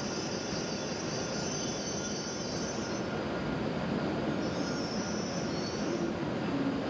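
W7 series Shinkansen train creeping to a stop, with a high steady squeal as it brakes over its steady running noise; the squeal fades about three seconds in and comes back briefly just before the train halts.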